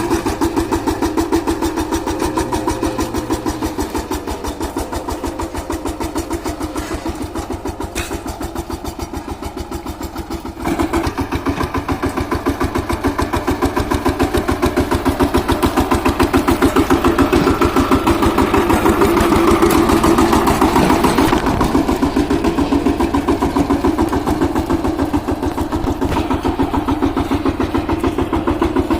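Shakti power tiller's single-cylinder diesel engine running with a fast, even thudding beat. It gets suddenly louder about a third of the way through and stays busier after that.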